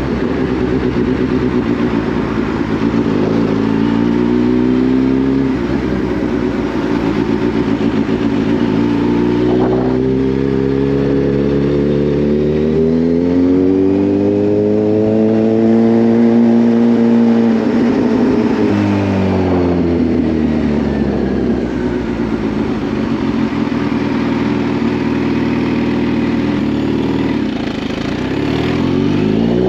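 Kawasaki Z H2's supercharged inline-four engine running under way. Its pitch climbs slowly to a peak about halfway through and falls away. It holds steady, dips, then rises again near the end.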